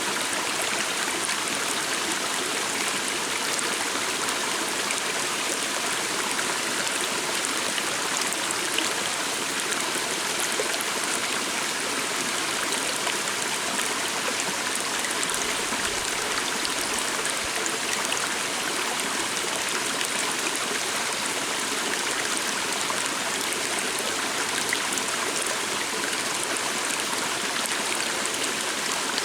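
A stream of water running steadily over rocks, a constant even rush and trickle.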